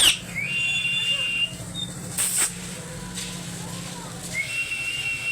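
Green parrot whistling: a clear whistle slides up and holds for about a second, a short harsh squawk comes about two seconds in, and another rising, held whistle comes near the end.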